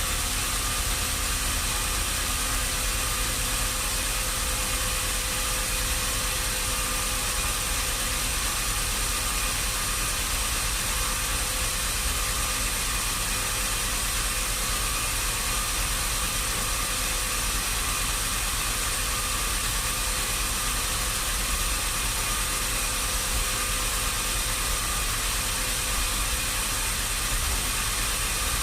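Sawmill machinery running steadily under engine power: a constant mechanical drone with a thin high whine, with no change in pitch or level.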